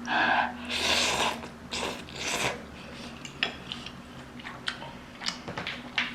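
A person eating spicy instant noodles: a few loud breathy rushes of air in the first two and a half seconds, then soft chewing with small mouth clicks.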